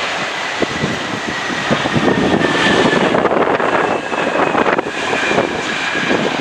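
Airbus A320 jet engines running as the airliner comes in to land close by, with a high whine that slowly drops in pitch over the roar. Strong wind buffets the microphone underneath.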